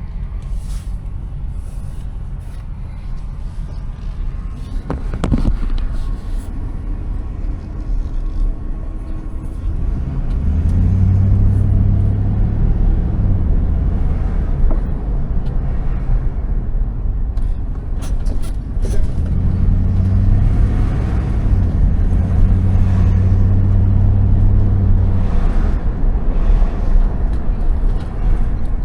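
Motor vehicle running, with a continuous low rumble. A steady low engine drone swells twice: about ten seconds in, and again from about nineteen to twenty-five seconds.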